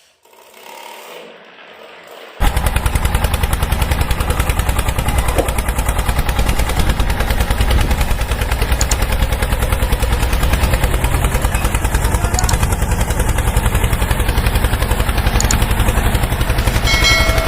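Small DC motor of a homemade cardboard RC tractor running, a loud, fast rattling buzz that starts suddenly about two seconds in and holds steady.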